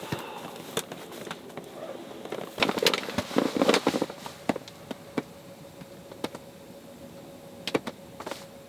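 Wood fire crackling in a wood stove: irregular sharp pops and ticks, with a denser run of crackles about three seconds in, over a faint steady hum.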